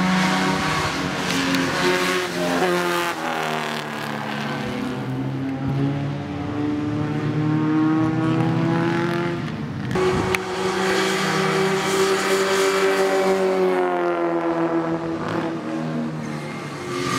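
Classic Mini Cooper's four-cylinder engine at racing speed: its pitch climbs for several seconds, shifts abruptly about ten seconds in, then holds high before easing off near the end.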